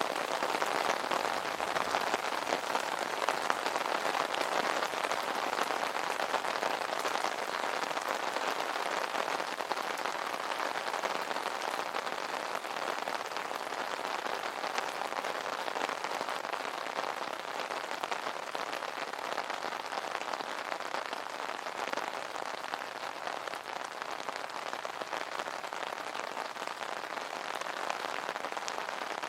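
Steady rain drumming on an umbrella canopy: a dense patter of many small drop impacts.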